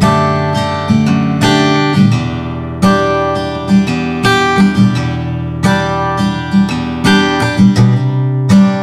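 Background music: acoustic guitar, plucked and strummed, with new notes struck at a steady, even pace.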